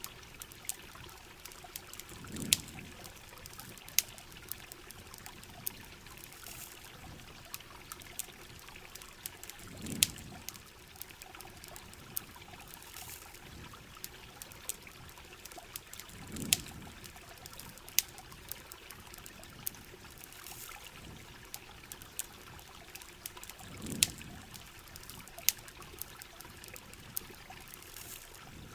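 Steady heavy rain and trickling water, with sharp campfire crackles and pops scattered throughout. A brief low swell rises and fades about every seven seconds.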